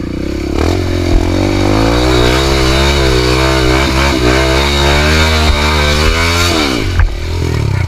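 Dirt bike engine revving hard under load on a steep climb, its pitch wavering up and down as the throttle is worked. About six and a half seconds in the revs drop sharply, then pick up again near the end.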